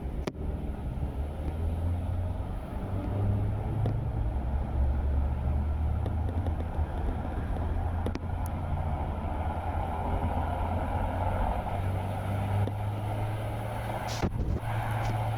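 Car driving on a rain-wet road: a steady low rumble of engine and road with the hiss of tyres on water. The hiss grows a little louder past the middle, and there are a few short sharp knocks, the clearest near the end.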